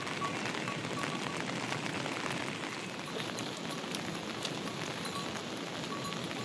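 Steady heavy monsoon rain falling, a dense even hiss of drops.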